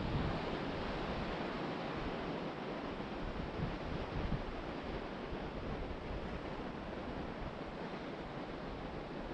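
Ocean surf breaking and washing up the beach as a steady rush, with wind buffeting the microphone in low gusts during the first few seconds.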